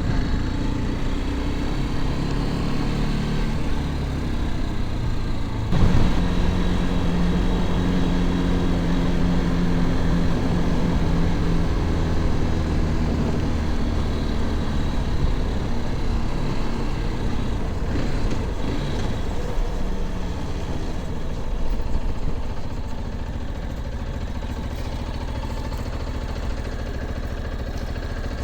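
Motorcycle engine running under way, with wind and road noise over it; the engine note steps up and down with throttle and gear changes, then drops to a quieter, steadier running note near the end.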